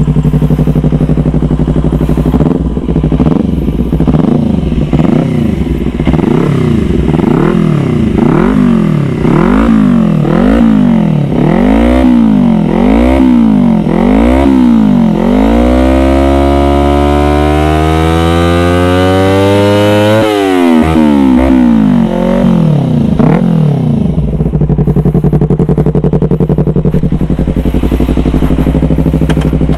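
Yamaha R25 parallel-twin engine through an aftermarket DX Generation Racing Undertail dual-silencer exhaust. It idles, is blipped in a run of about eight quick revs, then revved in one long rise that drops off sharply about twenty seconds in. Two more short blips follow, then it settles back to idle.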